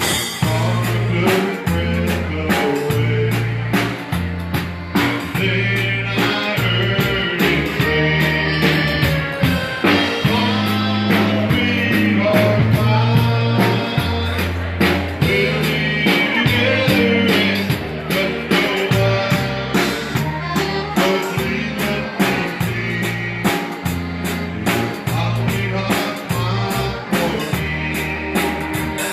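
Live Texas Czech dance band playing, with a steady bass line moving between notes under the melody.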